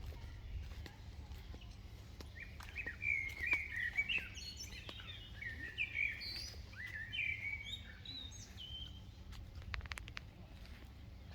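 Songbirds chirping: a busy run of short, quickly falling notes that starts a couple of seconds in and fades out near the end, over a low steady rumble, with a few sharp clicks near the end.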